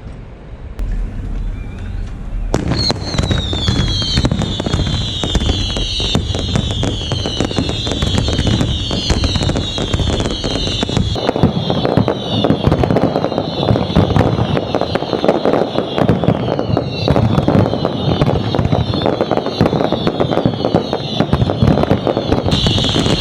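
Fireworks display: from about two and a half seconds in, a dense barrage of rapid bangs and crackling, laced with many whistling shells whose whistles fall in pitch one after another.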